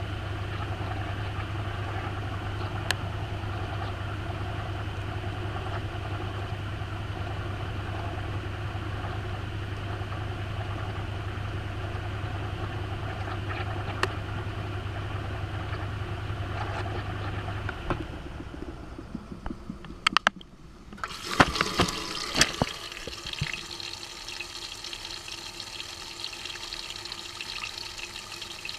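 Maytag washing machine heard from inside the tub: the motor hums steadily, then shuts off about two-thirds of the way through. A few sharp clicks and knocks follow, then water starts rushing in as the tub fills again.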